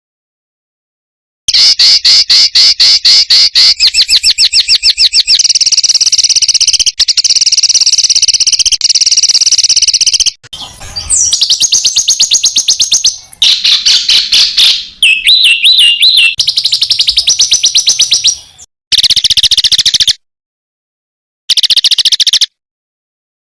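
Songbird singing fast, densely repeated high notes and trills in a masteran recording (the rapid-fire 'tembakan' phrases used to tutor competition songbirds). The song comes in bursts that start after a second and a half of silence and stop abruptly, with a short final burst near the end.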